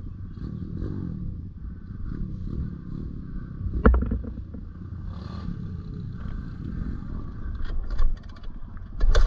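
Pit bike being ridden off-road: a low engine rumble mixed with wind noise, with a sharp knock about four seconds in and a few more knocks near the end.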